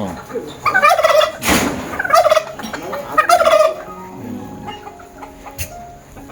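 Domestic turkey gobbling: three rapid rattling gobbles about a second apart, with a short noisy burst among them, then quieter.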